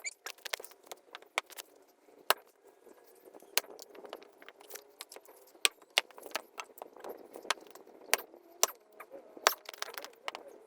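Firewood being handled: many sharp, irregular knocks and clatter of wood on wood, a few of them loud.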